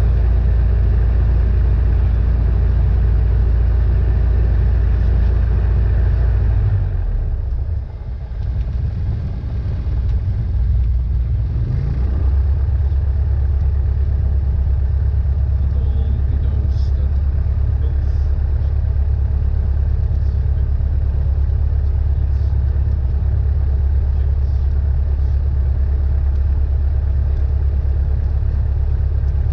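Cessna 172N's Lycoming O-320 four-cylinder engine and propeller droning steadily. About seven seconds in the sound dips and changes, and a few seconds later it settles into a steady, deeper drone.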